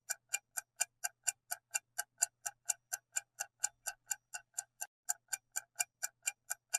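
Clock-style ticking sound effect of a quiz countdown timer, a steady run of sharp ticks about four a second.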